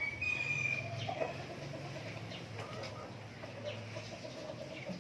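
Native chickens clucking, a run of quick low clucks, with a thin high steady note in the first second.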